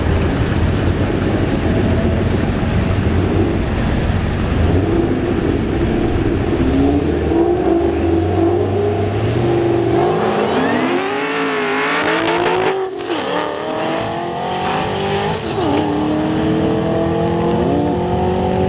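Drag cars' engines rumbling at the starting line, then a car launching at full throttle. Its engine climbs steeply in pitch and drops back at each of two upshifts before climbing again.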